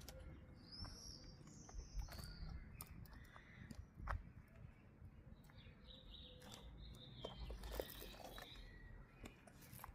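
Wild birds chirping faintly in short calls, about a second in and again a few seconds later, over a low rumble with scattered short clicks.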